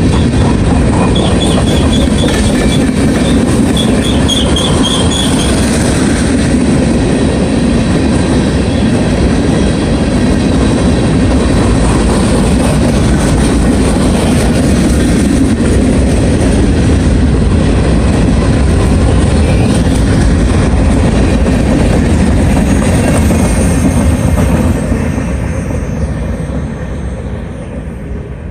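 Freight cars of a CSX mixed manifest train rolling past: a loud, steady rumble of steel wheels on rail with clickety-clack, and a few short wheel squeals in the first few seconds. The sound fades away near the end.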